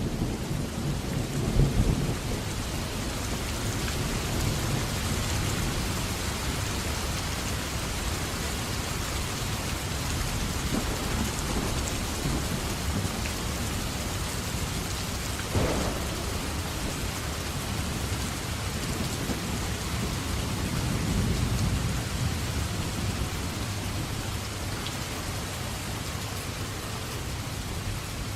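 Steady heavy rain hissing through a thunderstorm, with thunder rumbling low at the start, a sharper crack about halfway through, and another softer rumble later on.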